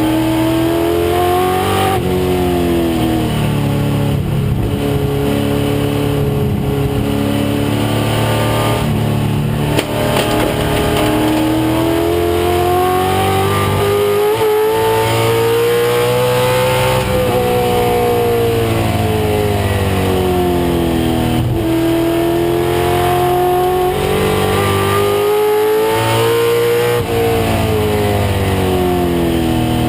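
The 1996 Ford Mustang race car's engine runs hard in a road race, its pitch climbing and falling repeatedly as it accelerates and slows through the corners, over steady road and wind noise. There is a short knock about ten seconds in.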